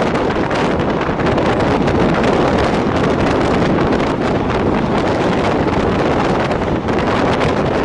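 Steady, loud wind buffeting the microphone over the running noise of a moving DEMU (diesel-electric multiple unit) train.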